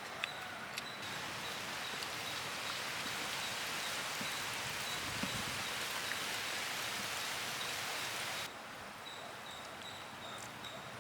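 A steady, even hiss, like rain or food sizzling, that starts abruptly about a second in and cuts off abruptly near the end. Before and after it there is a faint, steady high-pitched tone.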